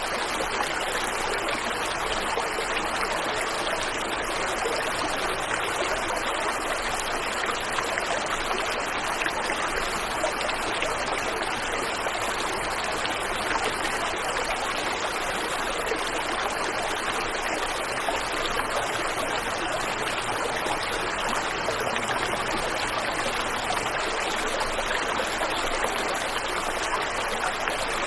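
Waterfall and river water rushing steadily, an even hiss of flowing and splashing water.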